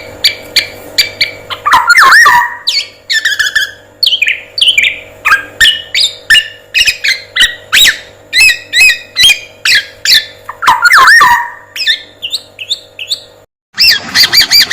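Bird-song training recording for a male black-naped oriole: a fast, varied run of sharp chirps and quick sweeping whistles. It breaks off in a short silence near the end, then a new series of calls starts.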